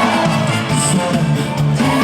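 Live band accompaniment to a trot song, playing on between the singer's lines.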